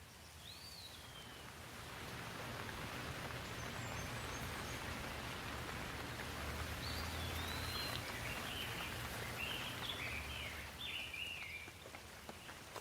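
Steady rain that swells up about two seconds in and eases off near the end, with a low rumble beneath it. Small birds chirp briefly at the start and repeatedly in the second half.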